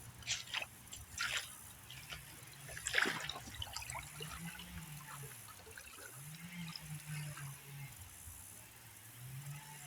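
Creek water trickling, with a few short clicks and rustles of handling in the first three seconds. A low hum swells and fades three times.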